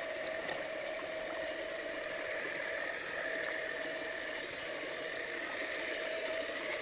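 Running water from a small stream and waterfall. Over it is a steady, thin electric whine from the TRX-4 crawler's motor and gearbox as the truck climbs a steep rock face.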